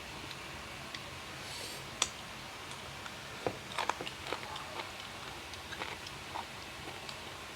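Someone eating sour green mango: scattered crisp clicks and small crunches, the sharpest about two seconds in and a cluster around four seconds.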